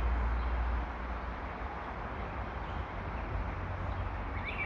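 Outdoor park ambience: a steady low rumble and hiss, heavier for the first second, with a brief bird chirp near the end.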